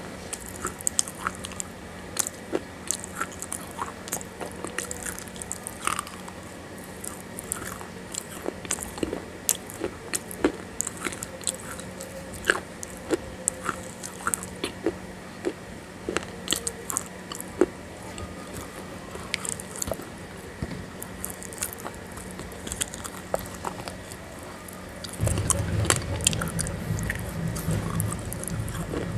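Close-miked eating: a person biting into and chewing wet grey clay-like lumps, with many short, sharp crunching clicks. A steady low hum runs underneath, and a louder low rumble comes in near the end.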